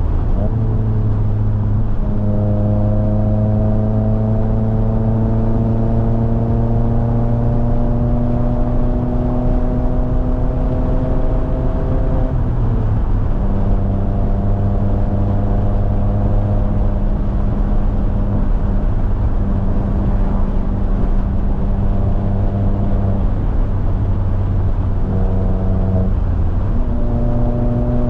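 Mazda MX-5 Miata (ND) 2.0-litre four-cylinder engine and exhaust heard from the open cockpit, pulling under load with its pitch rising slowly for about ten seconds. The note breaks off briefly just after twelve seconds, holds steady, breaks again near the end, then climbs once more, over a constant rumble of road and wind.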